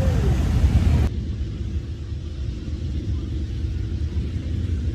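Low, steady rumble of motorcycle engines. About a second in, the higher frequencies drop away abruptly and only the low rumble remains.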